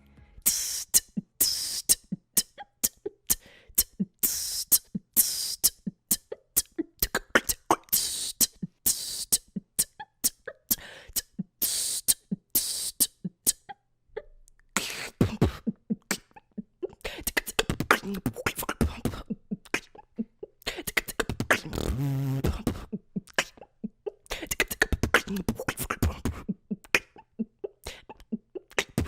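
Human beatboxing: a fast rhythm of sharp kick, snare and hi-hat mouth sounds, a short break about halfway, then a denser stretch with deep bass sounds and a warbling pitched tone.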